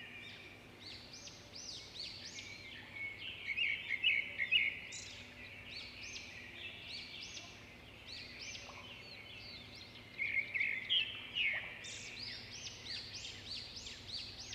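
Several birds chirping and calling at once, a dense chorus of short, quick, overlapping calls, louder for a couple of seconds about three seconds in and again around ten seconds in.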